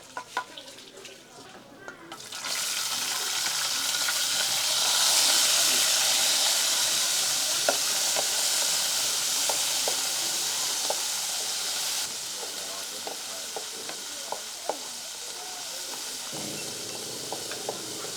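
Cicadas frying in hot oil in a pan: a loud sizzle starts suddenly about two and a half seconds in, with scattered crackles and clicks, and eases off somewhat about twelve seconds in.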